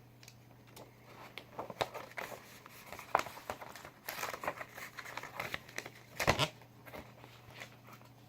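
Plastic disc cases and paper cover sleeves being handled: paper rustling and crinkling with scattered small clicks. A louder knock comes about six seconds in.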